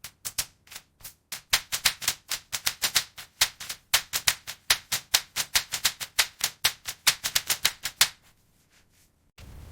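Rapid run of sharp clicks and taps, about four to five a second, as matchsticks are set down one after another, stopping about eight seconds in.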